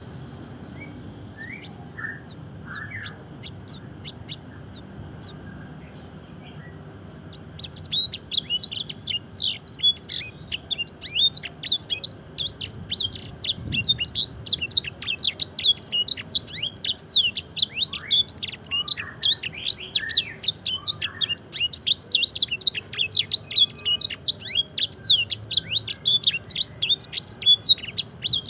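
A canary singing a training song with blackthroat-style phrases: a few soft chirps at first, then, about seven seconds in, a fast continuous trill of high, quickly falling notes that carries on.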